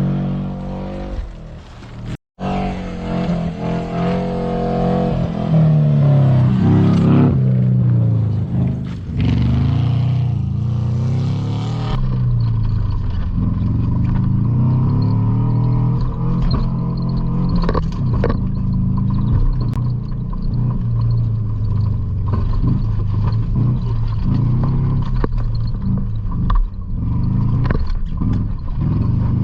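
A vehicle engine under hard driving, its pitch rising and falling over and over as the throttle is worked and the gears change. The sound cuts out briefly a couple of seconds in.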